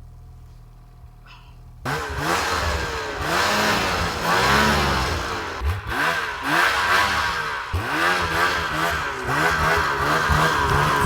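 A vehicle engine starts up loudly about two seconds in and then revs up and down over and over.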